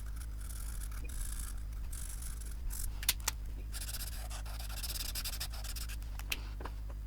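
Pen nib scratching across paper in short repeated strokes, with a few sharp light clicks about three seconds in and again near the end.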